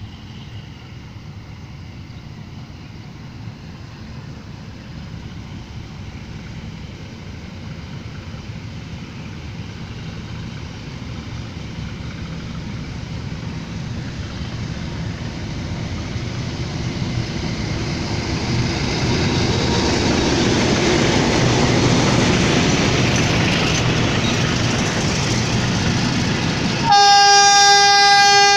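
Pakistan Railways HBU20 diesel-electric locomotive and its train pulling out. The engine and running noise grow steadily louder as it nears, and the locomotive's air horn blasts suddenly near the end, one loud held note.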